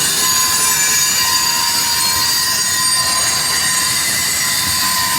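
Tank cars of a long freight train rolling past close by, loud, the steel wheels squealing against the rails in several steady high-pitched tones over the rumble of the cars.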